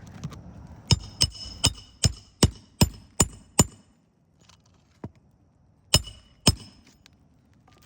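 Hammer blows with a ringing metallic tone on a shingle roof: eight sharp strikes in quick succession, about two and a half a second, then two more a couple of seconds later.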